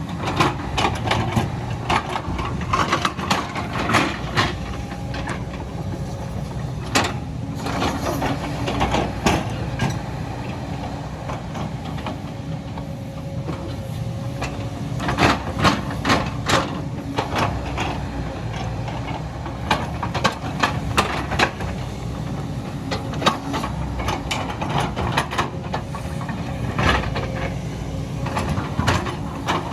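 Excavator's diesel engine running steadily while it works, with frequent sharp cracks and knocks that come in clusters, heaviest about a second in, around seven to nine seconds, and around fifteen to seventeen seconds.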